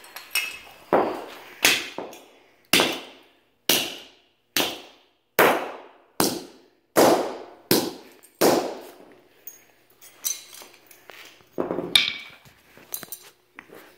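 A sledgehammer repeatedly striking a toy scale-model car, about ten hard blows at roughly one a second, then a few lighter knocks and clatter near the end.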